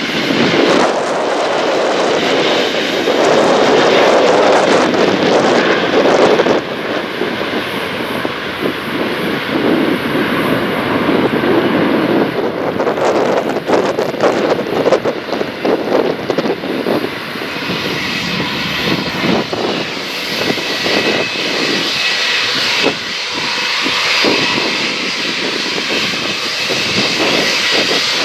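Jet airliner engines running loud and steady: an Airbus A330-300 through the first two-thirds, then an Airbus A320 whose engines add a steady high whine from about two-thirds of the way in.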